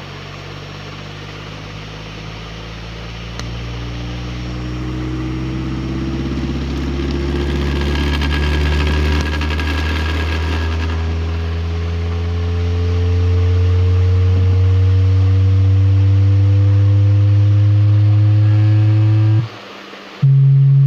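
Frequency-sweep test tone played through a ZK-TB21 Class-D amplifier board into three-way speakers, gliding slowly upward from deep bass and growing louder, with fainter higher tones rising along with it. Near the end it breaks off for a moment and a steady, higher tone starts.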